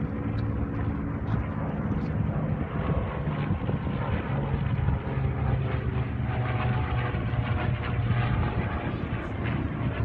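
Propeller airplane engine running with a steady drone, its pitch drifting slightly in the middle.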